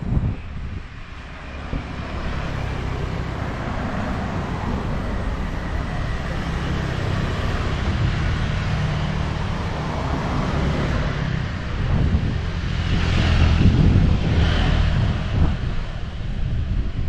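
Steady rumble of passing motor vehicles, swelling louder about two-thirds of the way through as something goes by close.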